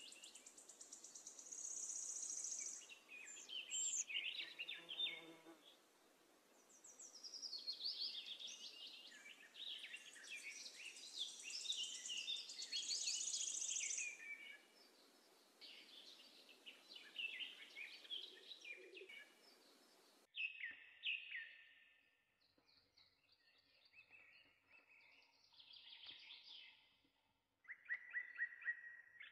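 Faint birdsong: several small birds chirping and trilling in quick runs, busy in the first half and sparser later.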